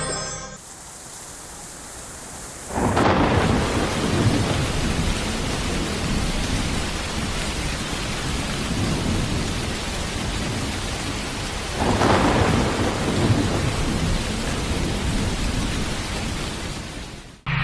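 Heavy rain with rolling thunder. A softer hiss of rain comes first, then a loud thunder rumble about three seconds in and another near twelve seconds, and the storm cuts off abruptly near the end.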